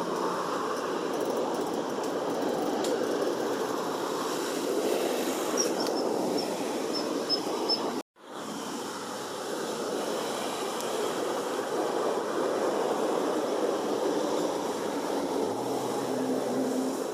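Steady rushing outdoor background noise at a riverbank; about five seconds in, a small bird gives a quick run of about six short, high notes. The sound drops out for a moment just past the middle.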